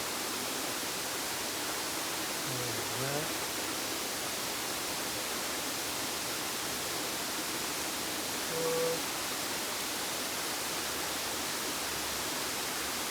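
Waterfall rushing in a steady, even roar, with two brief faint pitched sounds about three and nine seconds in.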